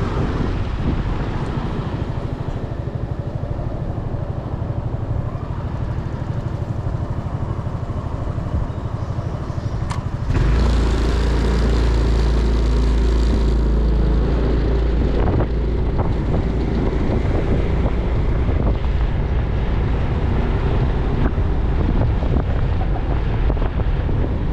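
Motorcycle engine running while riding, heard from on the bike. About ten seconds in it suddenly gets louder as the bike speeds up, and wind rushes over the microphone.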